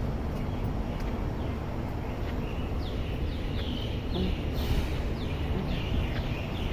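A bird calling with a quick run of short chirps that fall in pitch, coming in a few seconds in, over a steady low rumble.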